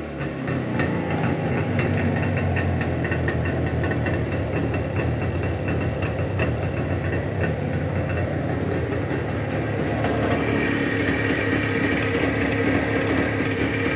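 Jawa 634 motorcycle's two-stroke twin engine idling steadily, running smoothly with no piston knock. Its tone shifts slightly about ten seconds in. The owner says the pistons, fourth repair size, are running perfectly quietly.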